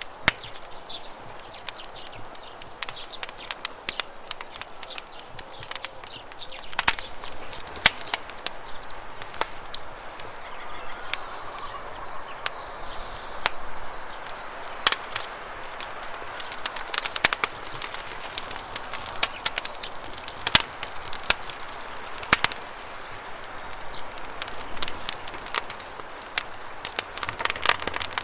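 Wood campfire crackling with sharp, irregular pops over the steady rush of flowing river water.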